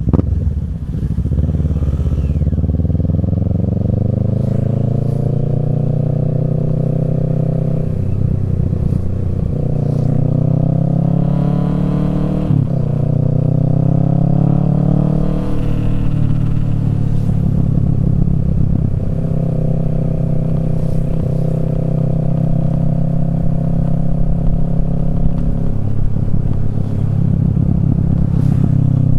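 Kawasaki Z650's parallel-twin engine through a Yoshimura Alpha exhaust, under way and pulling up through the revs. The pitch climbs, then drops sharply a few times at gear changes, then holds at a steadier cruise.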